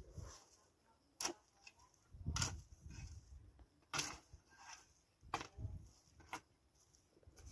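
A few sharp knocks and clicks at irregular intervals, some with a dull thud beneath them, about five in all.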